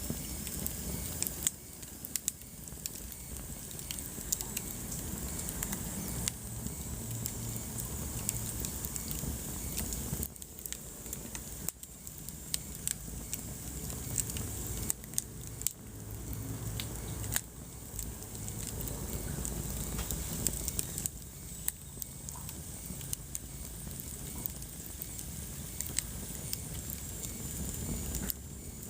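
Wood fire burning in a fireplace, crackling with frequent irregular sharp pops over a low, steady rumble.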